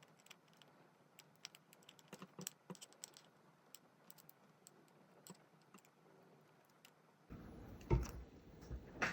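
Small, quick clicks and taps of precision repair tools against a smartphone's parts during disassembly, thickest in the first three seconds. About seven seconds in, a low background rumble comes up and two louder knocks follow near the end.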